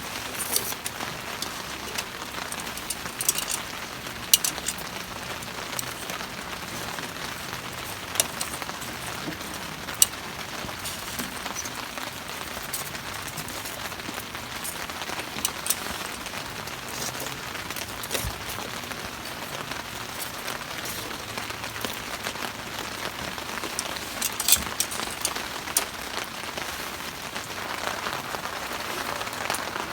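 Steady rain falling, an even hiss with scattered sharp taps of drops striking a surface. The hiss swells a little near the end.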